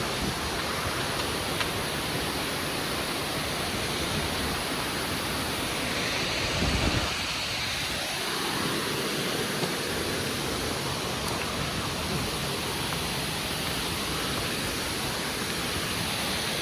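Waterfall rushing in a steady, even roar of falling water, with a brief low rumble about seven seconds in.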